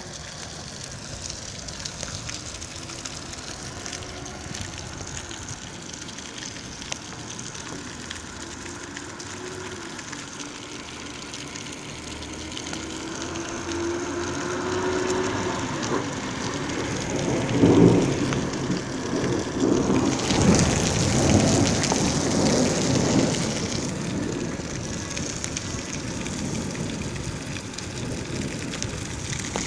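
Steady rain falling, with thunder rumbling: the sound swells from about halfway, peaks with heavy low rumbles, then settles back to steady rain.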